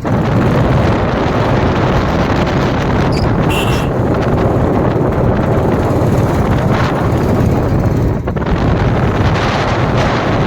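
Wind buffeting the microphone over the steady running of a motorcycle on the move.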